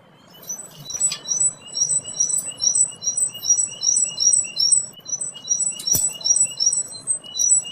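A tit singing: a fast run of short, high chirps repeated over and over in an even rhythm.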